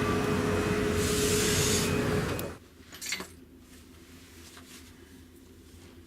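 Steady loud rushing noise with a steady hum from the ferry's machinery and ventilation. It stops abruptly about two and a half seconds in and gives way to quiet cabin room tone, with a short knock about a second later.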